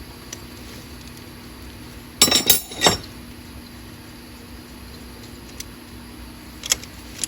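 A loud burst of metal clattering and clinking, about two seconds in and lasting under a second, then a couple of light clinks near the end, over a steady low hum.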